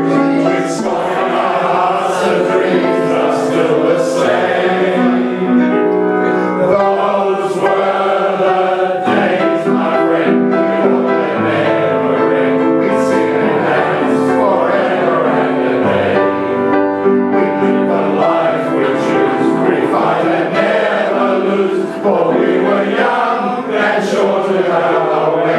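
Music with a group of voices singing together like a choir, held notes changing throughout.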